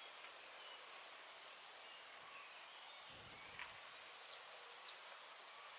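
Near silence: faint outdoor background with a thin, steady high tone and a faint low rustle about three seconds in.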